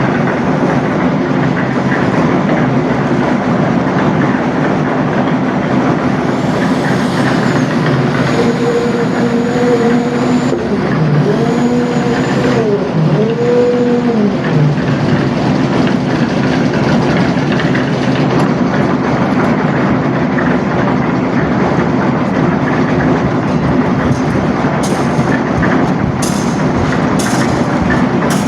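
Construction machine engine running steadily with a loud drone. A few rising-and-falling tones are heard in the middle, and a few short knocks near the end.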